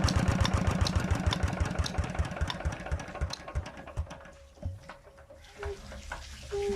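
Petter diesel engine shutting down: its regular firing beats slow and thin out, and it coasts to a stop about five seconds in.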